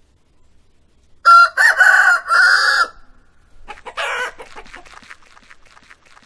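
Rooster crowing a three-part cock-a-doodle-doo, then a shorter squawk and a run of quick clucks that fade away.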